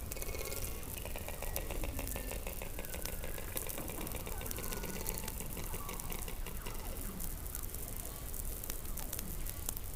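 Underwater sound picked up by a hydrophone beneath Antarctic ice: many overlapping gliding whistles and chirps, some falling and some rising, over a pulsed steady tone and constant clicking.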